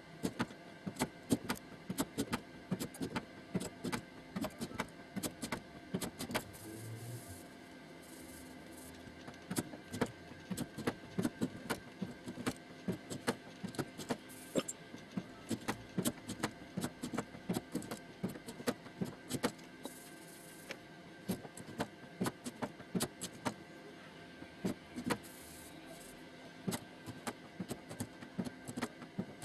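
Bodywork hammer tapping on a steel car door panel during final straightening: quick, light metallic taps, several a second in irregular runs, with two short pauses.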